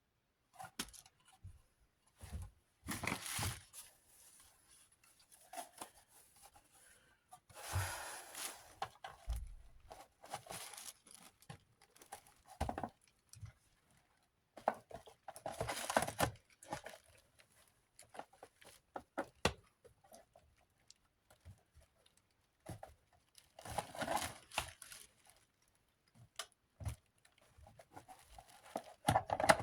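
Hand cleaning of desk fan parts: irregular bursts of rubbing and crinkling, with scattered short clicks and light knocks as the parts are handled.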